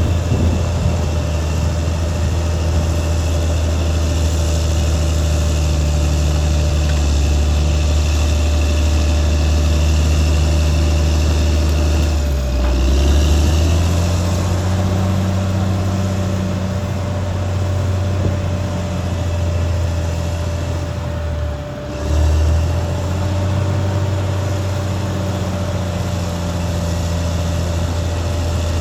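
Caterpillar D6R XL bulldozer's diesel engine running steadily, with a thin steady whine above the engine note. The engine speed dips and picks back up twice, a little before halfway and again about three-quarters through.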